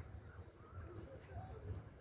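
Faint parrot calls, a few short wavering chirps over a low rumble.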